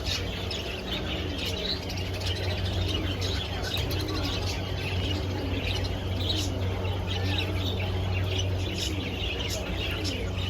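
Many caged birds calling at once: a dense mass of short, high chirps and peeps, with low calls repeating underneath and a steady low hum throughout.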